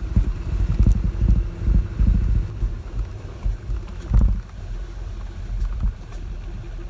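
Pickup truck carrying a slide-in camper driving slowly up a rough dirt road, heard from inside the cab: a steady engine hum under the uneven rumble and thumps of the truck bouncing over the ruts. There is a hard jolt about four seconds in, and the ride runs steadier after it.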